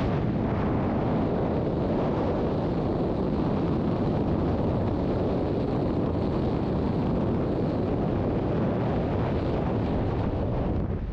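Steady, loud rush of wind buffeting the microphone, typical of a tandem skydive in freefall.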